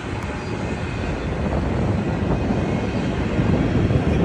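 Low, steady rumble of a CSX freight train's diesel locomotives, growing slightly louder.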